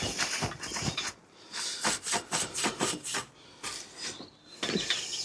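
Cloth wiping a mountain bike frame with foam cleaner, in a series of short rubbing strokes, some in quick runs.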